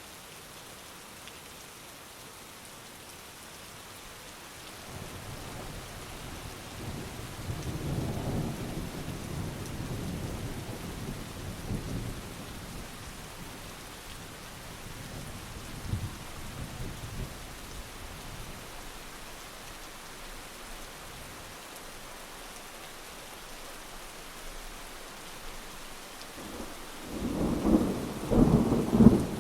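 Steady heavy rain with rolling thunder. A long low rumble builds and fades in the first half, and a louder, crackling peal of thunder breaks out near the end.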